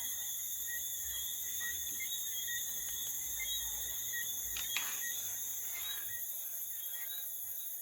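Steady background chorus of insects, crickets among them, chirping continuously, with a faint low rumble in the middle and a small click near the middle.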